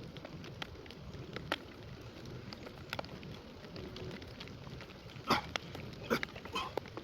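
A man breathing hard in short, sharp exhales while doing push-ups, the strongest breaths coming in the last two seconds, over scattered light ticks.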